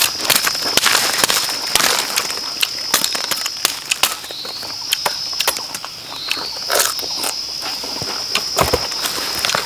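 A steady high-pitched insect drone that swells back in with a short rise about four and six seconds in, over irregular sharp snaps and crackles.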